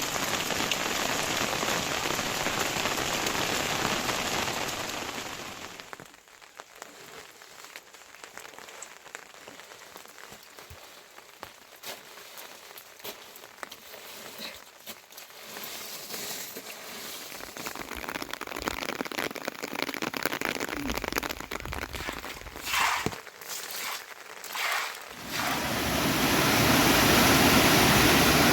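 Rain falling steadily, then a quieter stretch of scattered drips and patter from about six seconds in. Near the end a louder, even rush of water sets in.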